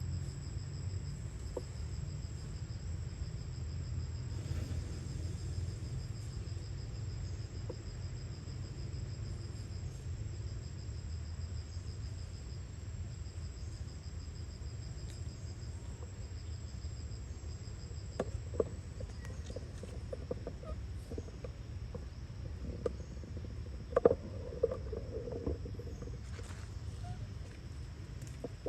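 Insects trilling steadily, one high rapidly pulsing trill and a higher continuous tone, over a low rumble. Scattered clicks and a short louder knock come near the end.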